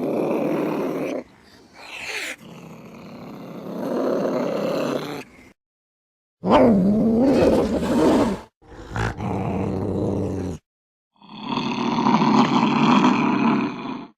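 Angry domestic cats growling and yowling in a string of short clips, each cut off abruptly by a moment of dead silence; a little past halfway one drawn-out yowl bends down and up in pitch.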